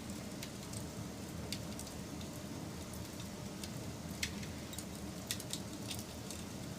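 Wood fire burning: a steady low rush of flames with scattered sharp crackles and pops. The loudest pops come a little past four seconds in and again about a second later.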